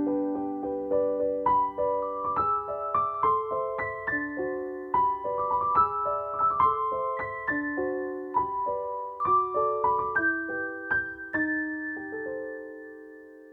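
Background piano music: a gentle melody of single notes, ending on a held chord that fades out near the end.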